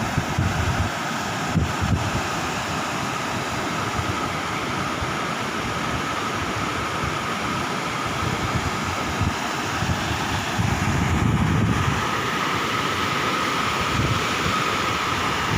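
Heavy rain pouring down in a steady, even hiss, with a faint steady high whine underneath.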